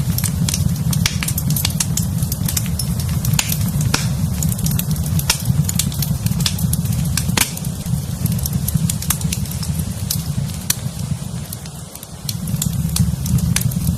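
Wood fire in a fireplace crackling, with many sharp pops over a steady low rumble. The rumble dips briefly about eleven seconds in.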